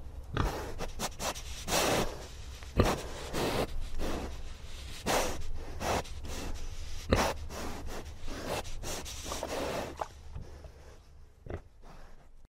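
Capuchin monkey and ring-tailed lemurs eating fruit off a metal mesh table: irregular crunches, scrapes and sharp clicks of food being chewed and handled, growing quieter near the end.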